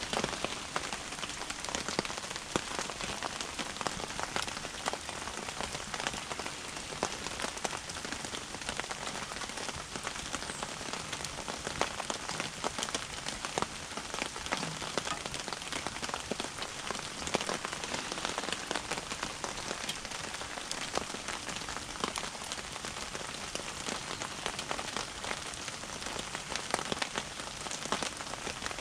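Steady rain falling: a dense, even patter of many small drop ticks.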